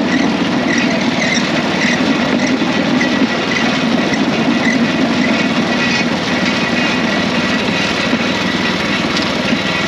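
Small engine of a bamboo train (norry) running steadily.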